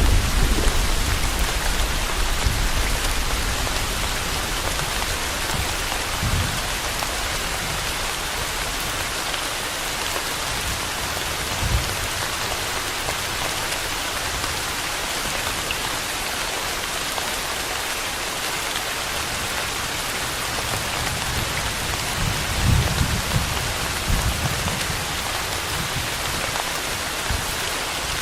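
Steady rain falling, with low rumbles of thunder: one dying away at the start and another near the end.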